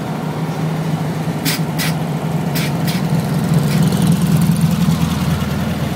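Air-cooled flat-four engine of a 1958 VW Beetle running as the car drives along, a steady low hum that grows a little louder in the middle. Four sharp clicks, in two pairs, sound between about one and a half and three seconds in.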